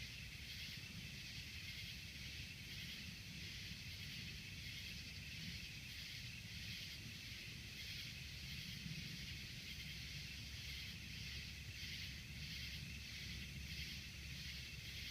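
Insect chorus chirping steadily in pulses about twice a second, over a faint low rumble.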